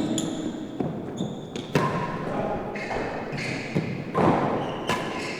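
Real tennis rally: the solid ball is struck by racquets and knocks off the court walls and floor, several sharp impacts a second or so apart, with short high squeaks between them.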